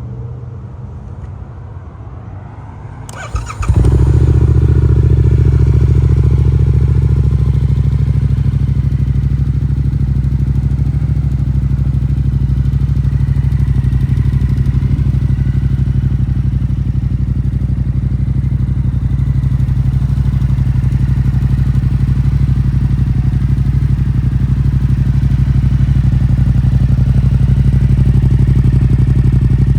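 A 2022 Yamaha MT-07's parallel-twin engine, breathing through a Yoshimura slip-on exhaust, starts with a short crank about three and a half seconds in. It then idles steadily and loudly, without revving.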